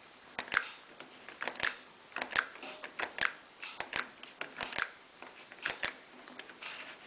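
Control on a Miele PW6055 Plus washing machine's panel being operated to step through wash programmes and settings: a run of sharp double clicks, each a press and release, about one a second.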